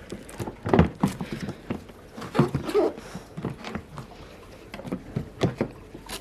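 Hard plastic clicks and knocks from a Porta Potti 335 portable toilet, as its top section is clipped back onto the waste cassette and handled. There are several sharp snaps, the loudest about a second in.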